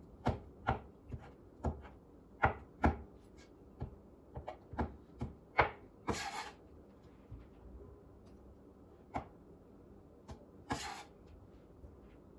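Knife chopping rotisserie chicken meat: quick, irregular strokes for about six seconds, then only a few single strokes. Two short scraping sounds come about halfway through and near the end.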